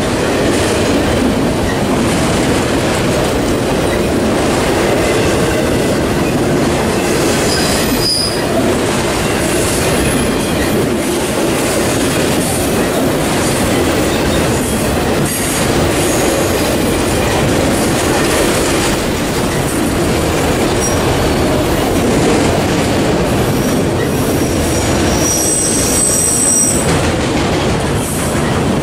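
Freight train of autorack cars rolling past close by: a steady loud rumble and rattle of steel wheels on the rails. Brief high-pitched wheel squeals cut in about 8 and 10 seconds in and again near the end.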